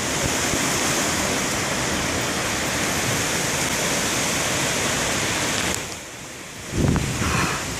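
Heavy thunderstorm rain with strong wind, a steady loud rushing hiss. About six seconds in it drops away briefly, then a loud low rumble comes in near the end.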